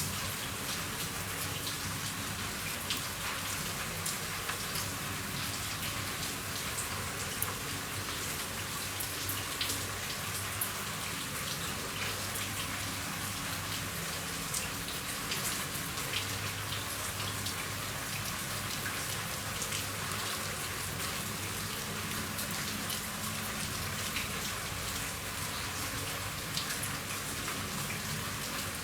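Steady rain falling on a roof, a dense patter of individual drops hitting the surface.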